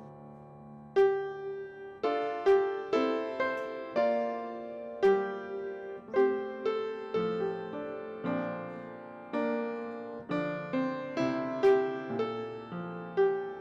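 Piano music: a held chord fading away, then from about a second in, a steady run of single notes and chords struck about two a second, each dying away after it is struck.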